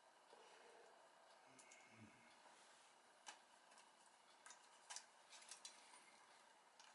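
Near silence with a few faint, sharp clicks and ticks, scattered and irregular.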